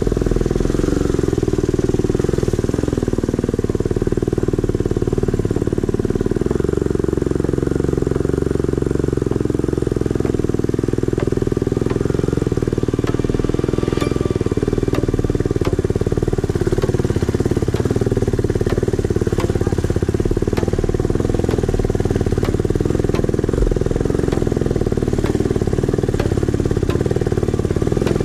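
Off-road motorcycle engine running steadily, dull and muffled, with no clear revving.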